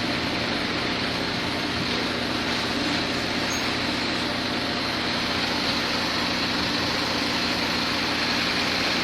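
Heavy diesel engine idling steadily on a job site, an even, unbroken drone.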